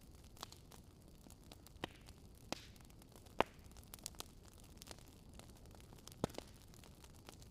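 Crackling wood fire: a low steady hiss with sharp pops and snaps at irregular intervals, the loudest a little past three seconds in.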